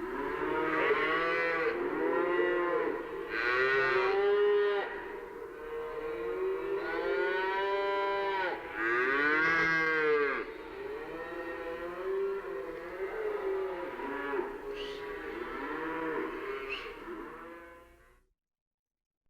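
Several cattle mooing at once, with many overlapping calls rising and falling in pitch. The sound cuts off abruptly near the end.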